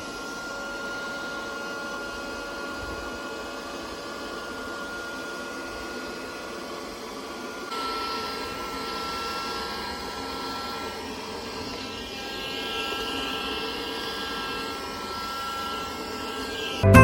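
SilverCrest cordless window vacuum's motor running steadily, a whine with a hiss of air. About halfway through, its pitch drops slightly and it gets a little louder.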